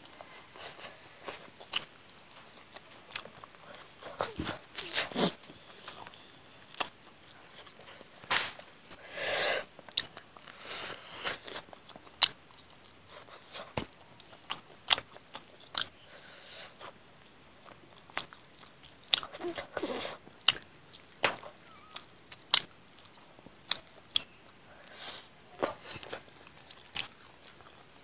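A person chewing and biting mouthfuls of chicken curry and rice, close to a clip-on microphone: wet mouth clicks and smacks about once a second, with a few longer stretches of crunchy chewing.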